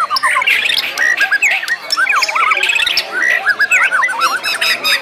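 Several white-rumped shamas (murai batu) singing at once in a dense, overlapping chorus of whistled phrases, rapid runs of repeated notes and harsh calls, typical of birds competing at a song contest.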